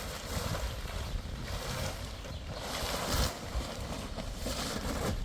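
Wind buffeting the microphone: a steady rumbling noise with gusts of hiss about one and three seconds in.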